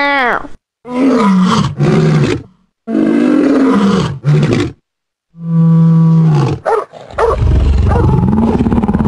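A lion roaring and growling: about four loud calls in a row, the last one long and deep.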